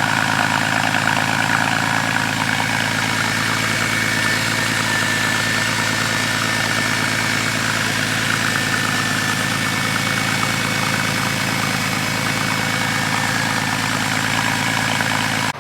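Porsche 911 Carrera S flat-six engine idling steadily through its exhaust shortly after a cold start.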